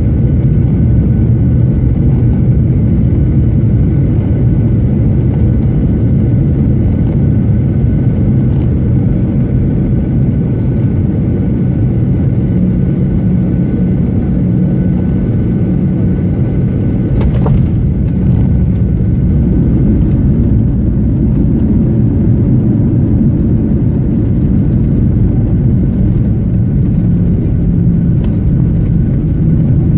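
Cabin noise inside a Boeing 737-900 from a seat near the wing: a loud, steady low rumble of the CFM56 engines and airflow, with a faint steady hum. A brief knock comes about 17 seconds in.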